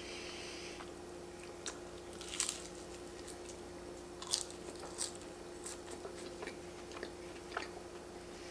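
Close-up eating of flaky pastry: soft crunches and chewing at irregular moments, the loudest bites about two and four seconds in, over a faint steady hum.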